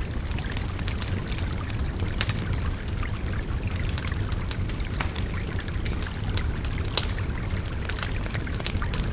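Wood fire crackling with frequent sharp pops, the sharpest about seven seconds in, over the steady low rush of a babbling river.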